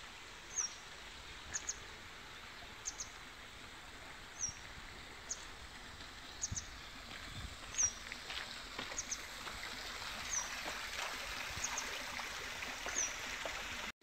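A small bird repeating a high, thin call about once a second, a short falling note alternating with a quick double chip, over the steady rush of a mountain stream that grows louder in the second half.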